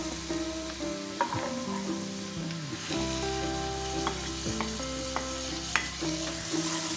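Chopped garlic sizzling in hot oil in a frying pan while being stirred with a wooden spatula, with a few sharp knocks of the spatula. About four seconds in, chopped onion is scraped off a plate into the pan.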